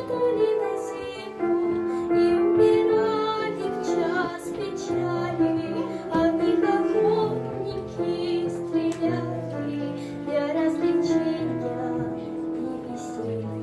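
A young girl singing a melodic song solo, with instrumental accompaniment holding sustained bass notes beneath her voice.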